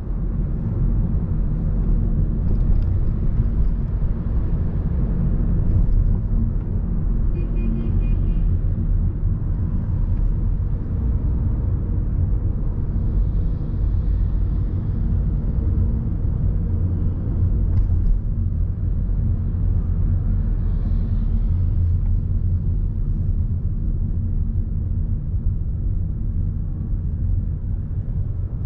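Steady low rumble of city road traffic, with a brief high chirping sound about eight seconds in.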